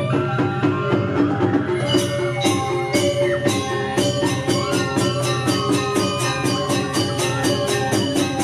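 Balinese gamelan playing, steady pitched tones under a rapid beat of metallic strikes that grows denser about two seconds in.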